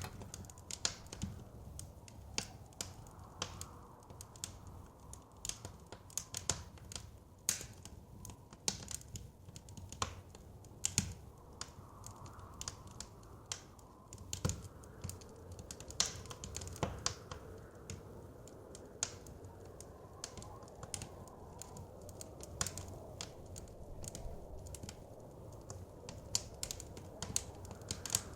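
Wood fire crackling, with irregular sharp snaps and a few louder pops, over a steady low rush of blizzard wind.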